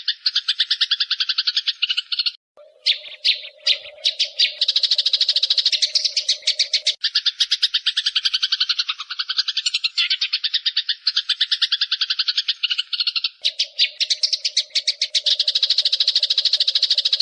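Eurasian tree sparrows chattering in a fast, harsh stream of notes, the agitated calls of sparrows fighting, in repeated bouts. A steady low drone sits under some of the bouts.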